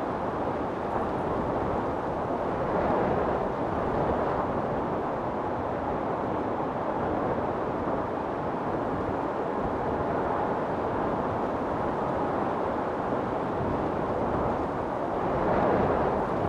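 Wind storm: a steady rush of strong wind that swells in gusts about three seconds in and again near the end.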